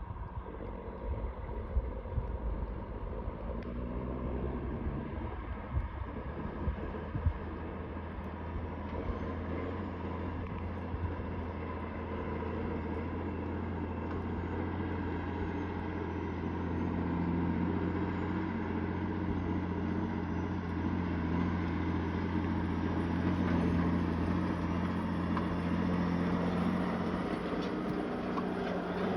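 Straight-piped Caterpillar 3406B diesel in a loaded log truck pulling hard up a hill, a steady deep drone that grows louder about halfway through. A few sharp knocks stand out in the first seven seconds.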